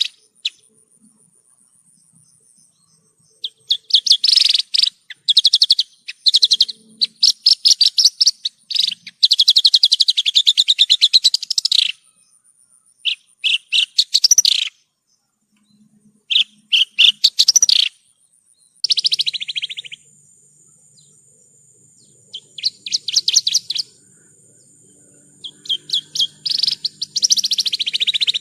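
Javan bush lark (branjangan) singing: bursts of fast, rapidly repeated high chattering notes, each a second or two long, broken by short pauses.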